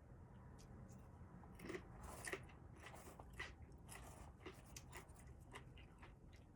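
Faint chewing and crunching of a person eating, with scattered small clicks.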